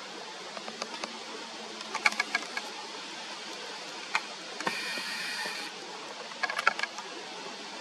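Birds calling: two quick runs of short, sharp tick-like call notes and, between them, one harsh rasping call about a second long, over a steady hiss.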